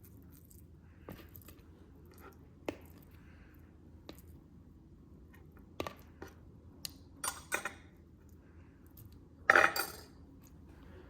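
Kitchenware clinking and knocking as tofu is put into a bowl of marinade: scattered light knocks, with a louder clatter near the end.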